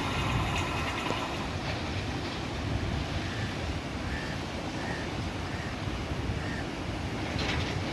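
Rumble of a passenger train that has just run past and is moving away, fading into a steady rush of wind on the microphone. Five faint short high chirps come at even spacing in the middle.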